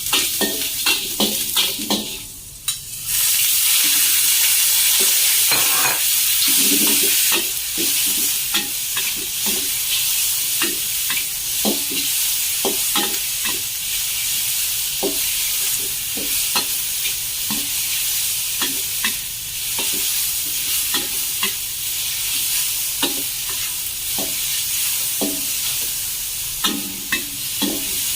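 Chicken stir-frying for Thai basil chicken: a steady sizzle in a hot pan, stirred with a utensil that clicks and scrapes against the pan many times. The sizzle grows louder about three seconds in.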